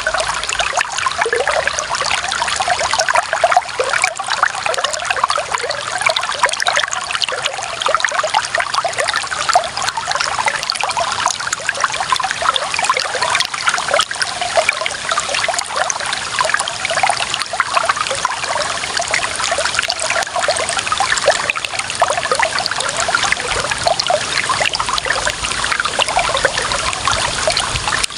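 Clear running water trickling and splashing steadily, a dense patter of small splashes with no let-up.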